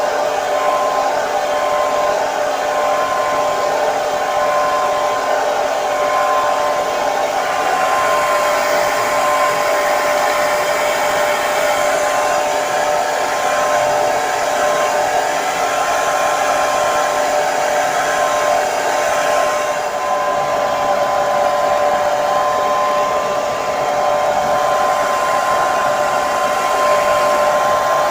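Electric hair dryer running steadily, an even airy rush with a constant motor whine.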